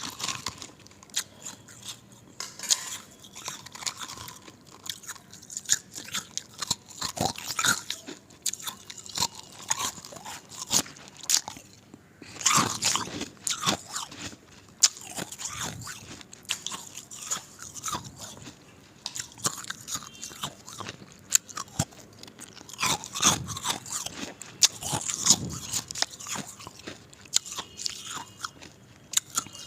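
Ice being bitten and chewed: irregular crisp crunches and crackles, with louder spells of crunching about halfway through and again near the end.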